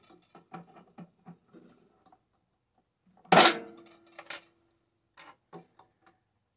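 Small parts from a scrap microwave being handled, with a run of light clicks and taps, then one loud metal clank a little over three seconds in that rings on briefly, and a few more scattered clicks.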